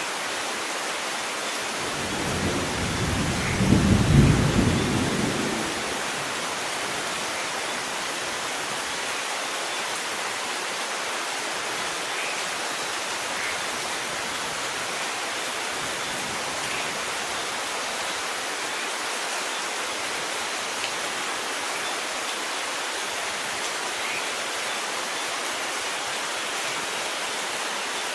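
Steady rain with a single roll of thunder that swells about two seconds in, peaks a couple of seconds later and fades out, leaving the even hiss of rainfall.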